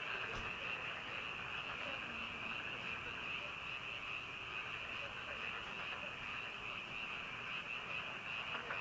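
Chorus of many frogs calling together in a steady, unbroken din, with a faint knock about half a second in.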